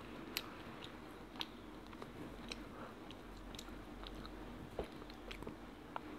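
A child chewing and biting a piece of chicken close to a clip-on microphone: soft mouth sounds with scattered small clicks and smacks.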